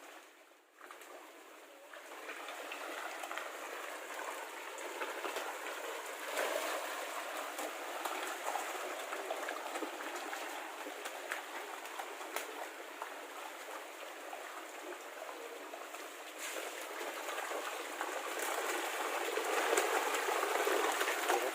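Water churning and splashing with many small slaps and gurgles as a dense crowd of fish feeds at the surface, growing louder near the end.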